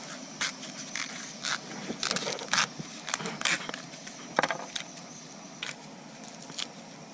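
Crab shells being cracked and handled while a crab is cleaned by hand: irregular sharp cracks and clicks, thicker in the first few seconds and sparser after, over a steady faint hiss.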